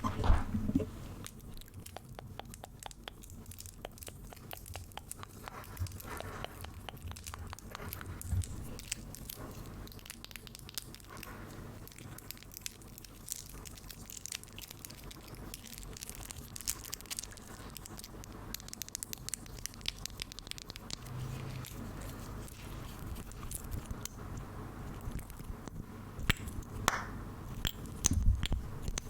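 Close-miked ASMR trigger sounds: a continuous run of small, crisp clicks and crackles, with a few louder pops near the start and toward the end.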